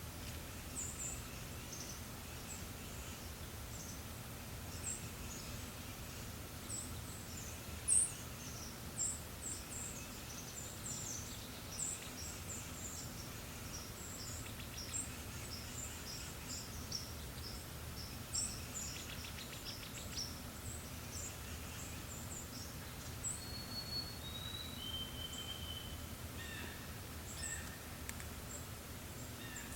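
Forest songbirds chirping, many short high calls throughout, with a few clear held whistles stepping down in pitch near the end, over a steady low background noise.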